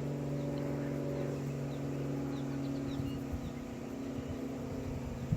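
A steady motor drone, a low hum with its overtones, that thins out a little after about three seconds, with faint short high chirps over it.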